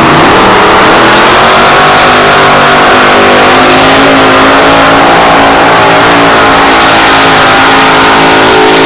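A pulling truck's 650-cubic-inch engine running loud at high revs under load as it drags the sled. Its pitch climbs over the first couple of seconds, then holds steady.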